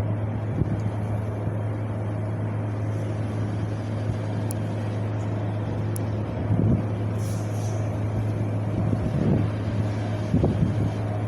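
Wind blowing steadily, a continuous low rumble with a few stronger gusts swelling briefly.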